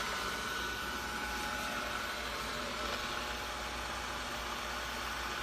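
Roborock S6 Pure robot vacuum running: a steady hiss from its suction fan with a high, even whine.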